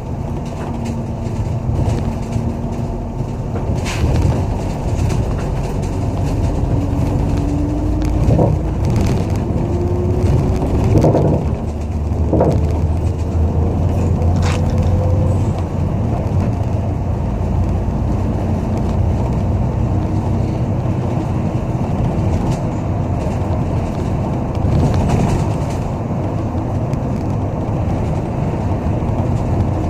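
City bus driving, heard from inside the cabin: steady engine and road rumble. A drivetrain whine rises in pitch about a third of the way in, and a few short rattles and clicks come through near the middle.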